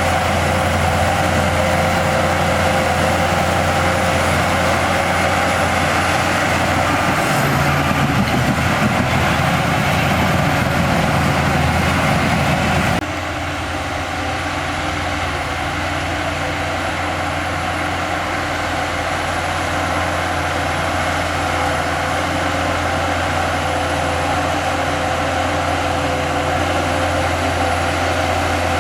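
Heavy diesel earthmoving machinery running steadily, with a deeper rumble from the engine working harder partway through. About halfway, the sound changes abruptly and becomes slightly quieter.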